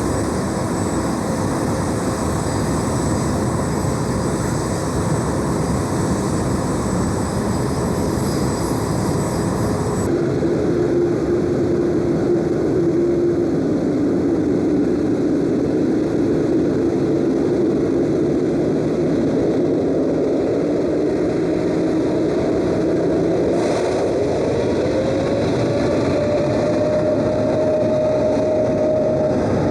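Large jet aircraft engines running loud and steady, with a sudden change about ten seconds in to a different engine sound. Near the end one engine tone rises in pitch and holds.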